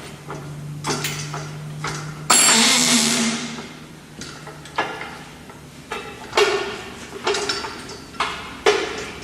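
Metal clanks and knocks from work on a car in a garage, several sharp ones in the second half, over a steady low hum that stops about six seconds in. About two seconds in there is a loud hissing burst that fades over about a second.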